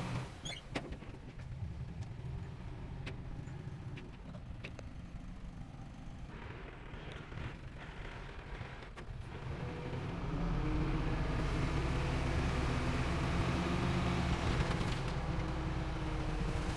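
Heavy diesel construction machinery running, with a low rumble and scattered clanks and knocks in the first half. About ten seconds in, the engine grows louder and settles into a steady, pitched note.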